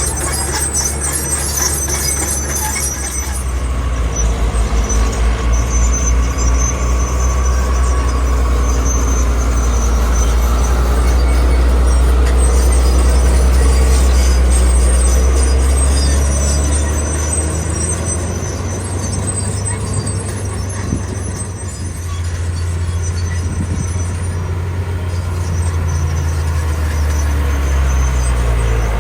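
Heavy diesel earthmoving machine working, its engine a deep steady drone that swells through the middle and eases briefly later on. High-pitched squealing in the first few seconds.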